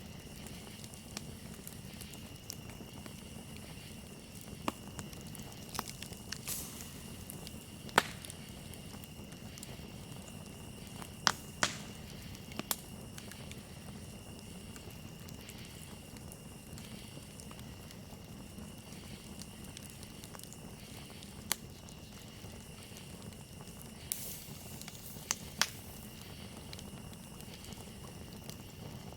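Campfire crackling with scattered sharp pops, the loudest about eight and eleven seconds in, over a steady trill of crickets.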